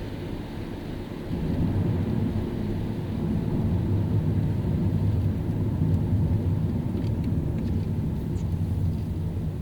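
Car driving on a wet city road: a low engine and tyre rumble that grows louder about a second in and then runs on steadily.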